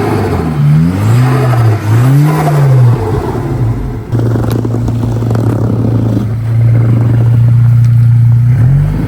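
Mk6 Volkswagen GTI's turbocharged four-cylinder engine revving up and down several times, then held at steady revs for about four seconds, then rising and falling again near the end, as the car is driven backwards through deep snow.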